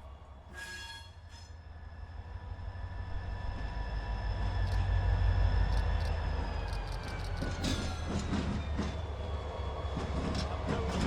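Freight train moving along the track: a low locomotive rumble swells to its loudest about halfway through, with a thin, steady wheel squeal that sags slightly in pitch later on. In the second half come a run of clicks and clanks from the wheels and cars.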